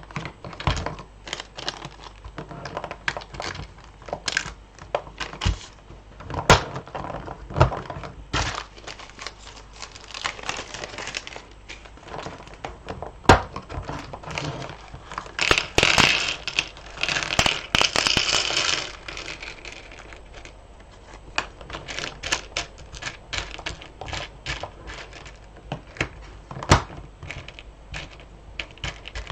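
Loose beads clicking and rattling as they are handled and sorted by hand, in irregular runs of small sharp clicks. Around the middle comes a few seconds of denser rustling and crinkling.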